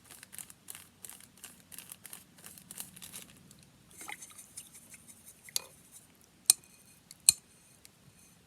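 Paper rustling and crinkling in quick strokes, about five a second, for the first three seconds. This is followed by a few scattered handling sounds and sharp clicks, the two loudest about six and a half and seven seconds in.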